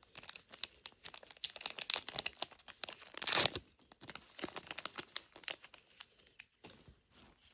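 Small plastic packaging being crinkled and torn open by hand, an irregular run of crackles with one louder rip about three and a half seconds in.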